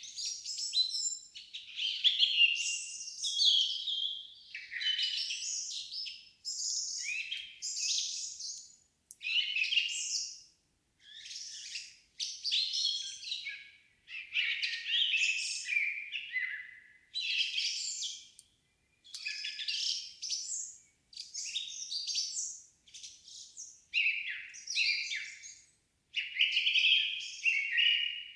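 A songbird singing in the forest: a continuous series of varied, high-pitched phrases, each lasting a second or two, separated by brief pauses.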